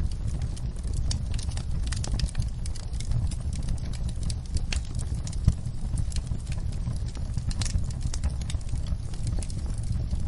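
Wood fire in a fireplace crackling: irregular small pops and snaps over a steady low rumble, with one louder pop about five and a half seconds in.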